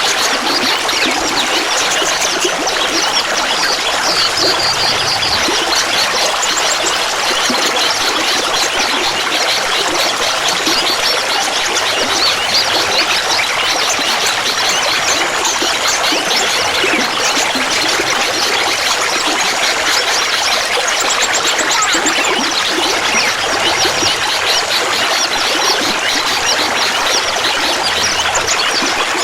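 Clear water babbling and trickling: a steady splashing of many small droplets that never lets up.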